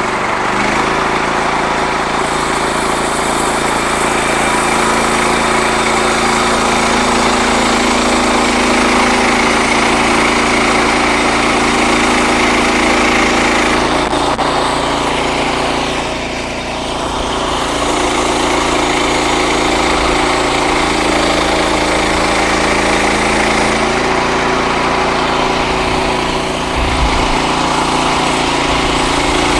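Frontier OS31 portable bandsaw mill's small gas engine running steadily while it saws a red oak log, with a brief drop in level about halfway through and again near the end.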